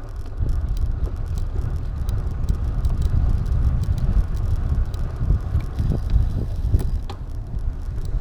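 Wind buffeting a helmet- or bike-mounted action camera's microphone while riding, a steady low rumble, with light ticks and rattles scattered through it.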